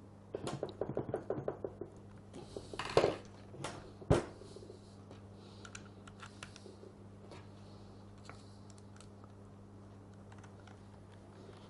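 A quick run of small clicks, then two sharp knocks and scattered faint ticks: plastic and metal parts of a Bosch GSH 5 demolition hammer's switch assembly handled and pressed into place by hand.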